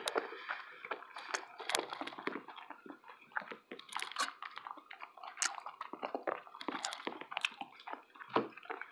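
A person chewing a mouthful of breakfast burrito, with irregular small clicks and smacks of the mouth.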